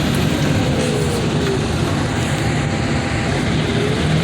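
Turbocharged diesel engine of a loader running steadily under way, a constant low drone.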